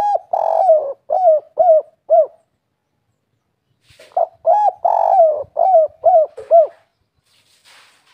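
Spotted dove cooing in the 'kuk 3' song style: two phrases of five short, low coos each, a few seconds apart.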